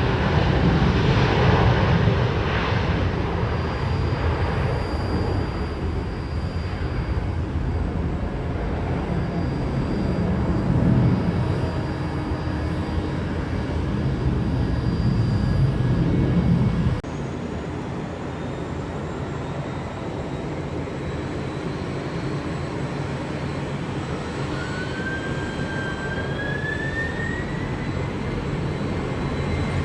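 Boeing 737-900 jet airliner's engines rumbling loudly. About 17 seconds in, a sudden cut to the quieter, steady engine noise of a Boeing 767-300F freighter, with a rising whine near the end.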